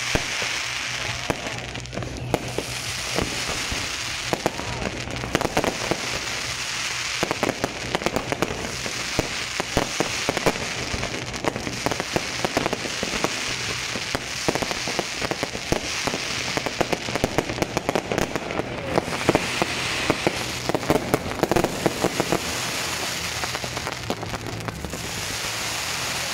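Fireworks going off continuously: dense crackling with many sharp bangs scattered throughout.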